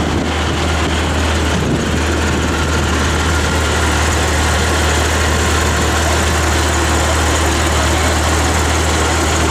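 Porsche GT3 RS flat-six engine idling steadily with a deep, even hum and no revving.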